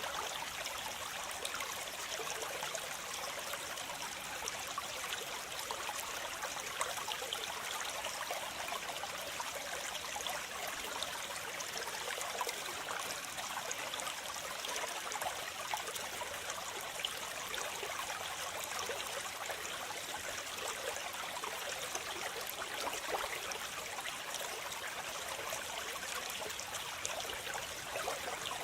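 Waterfall: water falling and splashing in a steady rush, with many small splashes and little low rumble.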